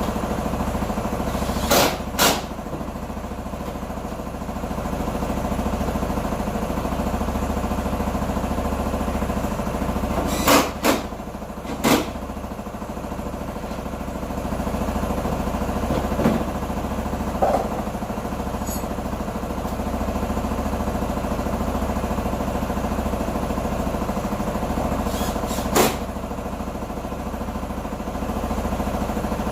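Q2 125 motorcycle engine idling steadily after repair, with a few short sharp clicks over it: a pair about two seconds in, three more around the middle, and one near the end.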